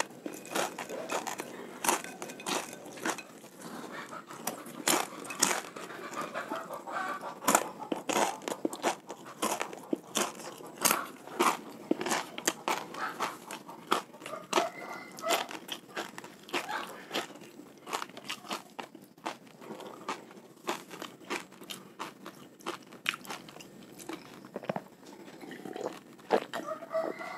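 Close-up crunching and chewing of a crispy fried macaroni snack, a quick run of sharp crunches with mouth noises. Near the end come swallowing sounds as he drinks from a glass.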